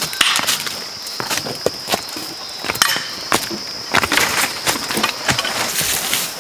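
Irregular sharp knocks and crackles, several a second, over a steady high-pitched buzz.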